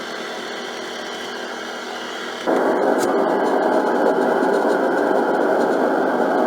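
Portable white noise machine playing a steady fan-like noise. About two and a half seconds in, it switches abruptly to the next sound track, a louder, lower steady noise.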